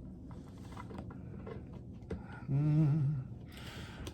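A man hums a few notes for under a second, about two and a half seconds in, over faint small handling noises. A short hiss follows near the end.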